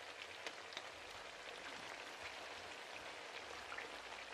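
Sliced potatoes and onions frying in plenty of oil in a pan: a steady sizzle with many small crackles and pops. The potatoes are starting to brown but are not yet soft.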